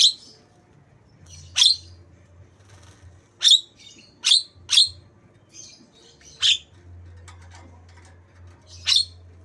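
Javan myna calling in short, sharp, piercing notes, about seven of them at irregular intervals and including a quick pair midway, as part of its mimicry of white-rumped shama song.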